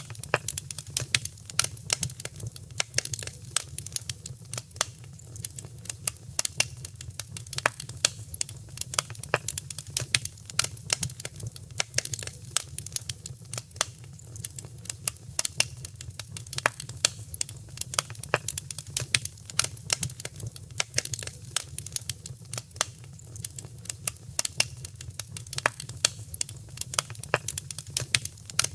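Wood fire crackling, with many irregular sharp snaps and pops over a steady low rumble.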